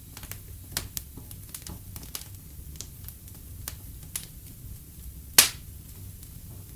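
Wood fire in a fireplace crackling, with irregular sharp pops and snaps over a low steady rumble; one loud pop about five seconds in.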